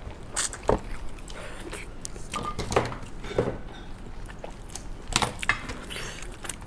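A person eating: close-up chewing and biting with short wet smacks at irregular moments, on a braised pig's trotter.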